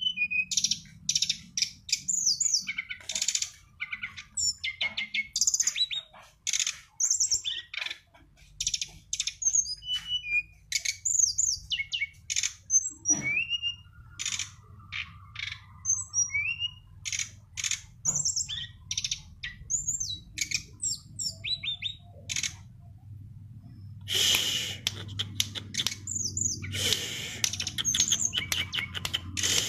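Brown-chested jungle flycatcher (sikatan rimba dada coklat) singing a long, varied run of quick high chirps, whistled notes and rapid trills broken by short pauses, over a faint low hum.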